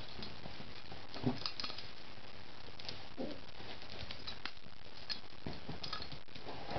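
Italian greyhound puppy making two short, soft noises, about a second and about three seconds in, among light clicks and patter.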